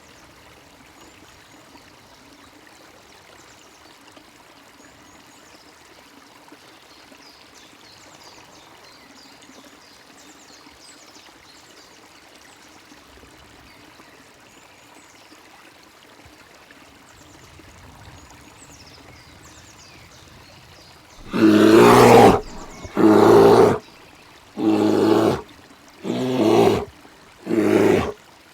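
Five loud, pitched animal calls, each about a second long and coming one after another in the last few seconds. Before them is a faint running-stream sound with faint high bird chirps.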